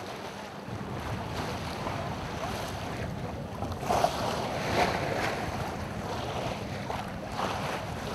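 Wind rumbling on the microphone over the rush of water along a sailing ship's hull. Two louder surges come about four and five seconds in.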